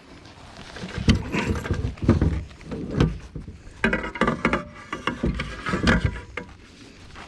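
Irregular knocks, bumps and scrapes on a kayak as a caught bass is handled and laid on a measuring board. They start about a second in and die away near the end.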